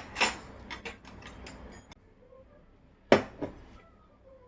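Light clicking and clattering of hard objects for the first two seconds, then two sharp knocks in quick succession about three seconds in.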